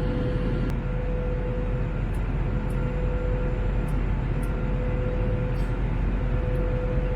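Airbus A321 cabin noise: the steady roar of the jet engines and airflow, with a constant hum held on one pitch throughout.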